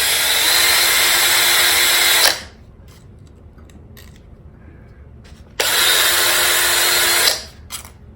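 Electric drill running at high speed with a plane screw chucked in it and 1200-grit paper pressed against it to polish it. It runs for about two seconds and stops, runs again for under two seconds near the end, then a few light clicks follow.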